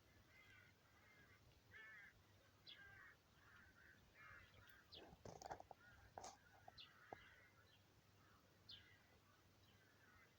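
Faint bird calls outdoors: repeated short raspy calls and brief high chirps. A few quick rustles or knocks come about halfway through.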